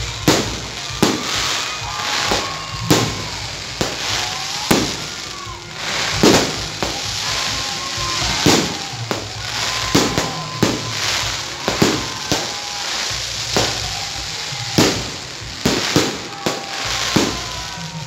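Aerial fireworks going off, with sharp bangs one to two a second over a steady crackle.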